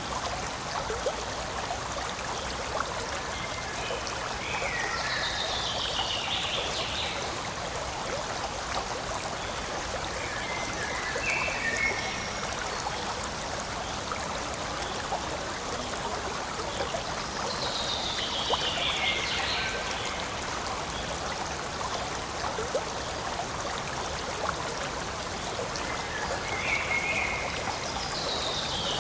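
Forest stream flowing and trickling steadily, with a high call that falls in pitch heard about four times over it.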